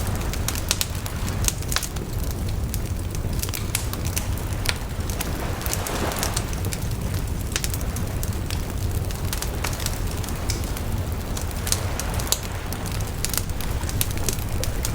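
Wood bonfire burning: frequent irregular sharp crackles and pops of burning wood over a steady low rumble, with a brief hissing swell about six seconds in.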